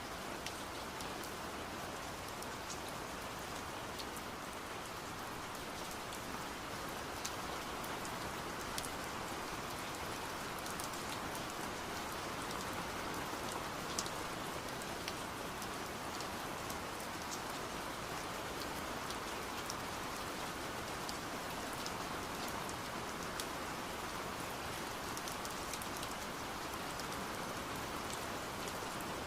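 Steady rain heard from behind a window: an even rushing of rain, with scattered sharp taps of drops striking the glass.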